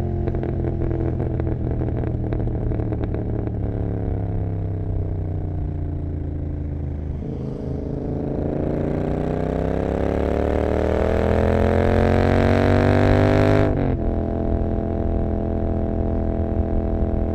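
Royal Enfield Continental GT 650's parallel-twin engine through an aftermarket Emgo cafe muffler, heard from the rider's seat on the move. The note eases down with some crackling in the first few seconds, then rises steadily under acceleration for about six seconds. It drops suddenly near the end and settles into a steady run.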